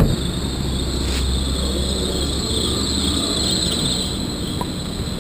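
A vehicle's steady low running rumble, with a continuous high chirring of insects over it and a single click right at the start.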